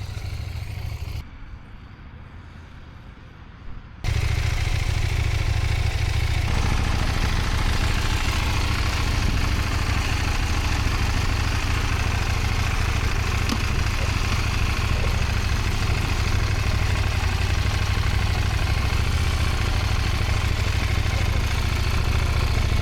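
Motorcycle riding: the engine is low and quieter for the first few seconds, then about four seconds in the sound jumps to a loud, steady noise that holds.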